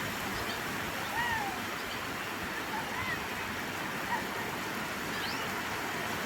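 Steady rain falling, an even hiss, with a few faint short whistle-like calls over it.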